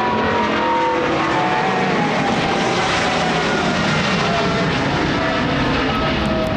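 Jet airliner passing low and close: loud, steady jet engine noise with several whine tones slowly sliding down in pitch as it goes by.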